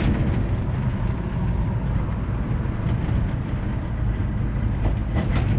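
1958 GMC 100 restomod pickup on the move, its engine and road noise making a steady low rumble, with a few faint clicks near the end.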